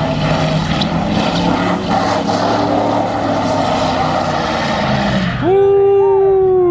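Car engine running hard under a broad hiss; about five seconds in it is revved up sharply, held at a steady high pitch for about a second, then falls away.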